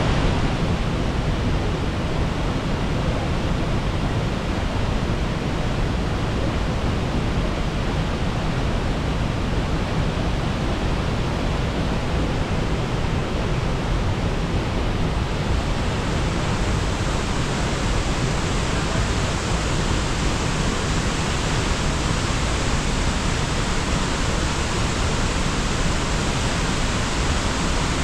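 Sengataki waterfall pouring steadily, a dense even rush of falling water. About halfway through it turns brighter and hissier.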